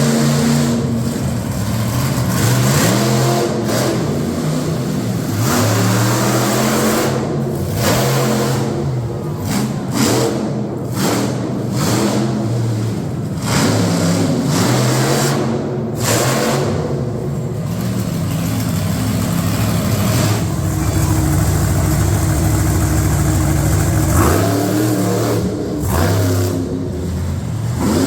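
Monster truck engine revving hard again and again, the pitch climbing and dropping with each blip of the throttle, holding a steadier low drone for a few seconds about two-thirds of the way through.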